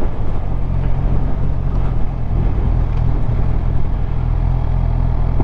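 Suzuki GSX-R750's inline-four engine running at a steady pace while riding, with wind rushing over the microphone.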